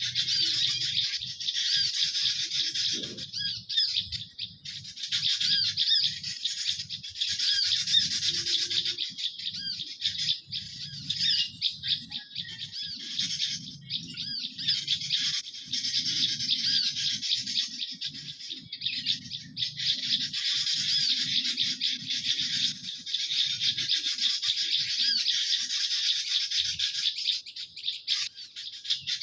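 Many small songbirds chirping and twittering at once in a dense, continuous chorus of quick high calls. This is the kind of mixed call used to lure garden birds for trapping.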